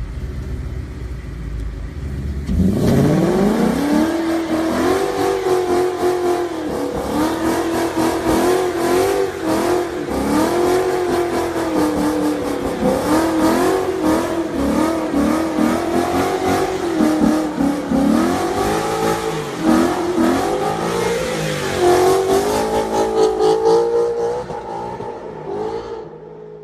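Ford Mustang GT V8 exhaust rumbling at idle, then revved up and blipped over and over, the pitch rising and falling with each rev, before dropping away near the end.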